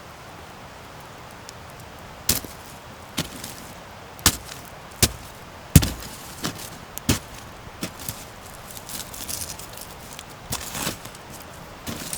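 Wood campfire crackling: a low steady hiss of burning, with sharp irregular pops and snaps starting about two seconds in and coming roughly every half second to a second, the loudest snap about halfway through.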